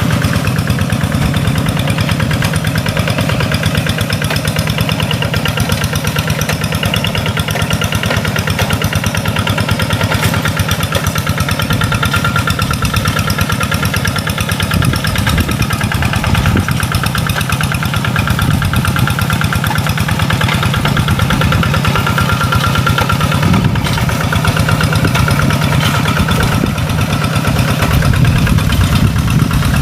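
Rice-field tractor engine running steadily with a rapid, even firing beat; it grows a little louder near the end.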